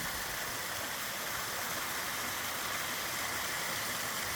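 Steady rushing of a mountain valley stream's flowing water.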